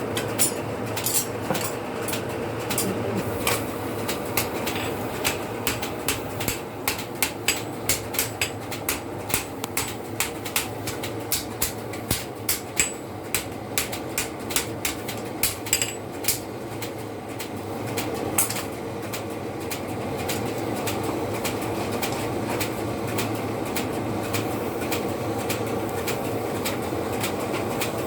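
Forging hammer blows on steel at a blacksmith's, about two to three sharp strikes a second, stopping about eighteen seconds in. Under them runs a steady mechanical drone.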